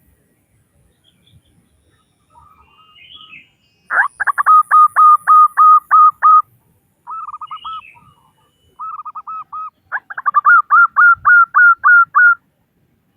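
Female zebra dove (perkutut) calling: two rapid runs of about a dozen short cooing notes each, about four and ten seconds in, with two softer rolling coos between them.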